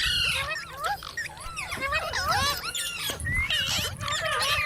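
Several rose-ringed parakeets chattering together in a busy overlap of short rising and falling chirps.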